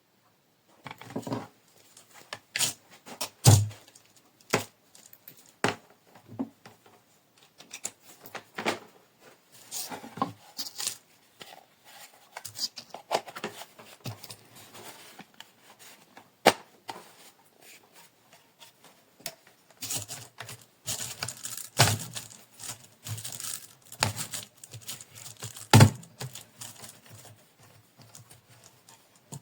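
Irregular handling sounds: crinkling and tearing with sharp clicks and knocks scattered throughout, busier from about twenty seconds in. No motor is running.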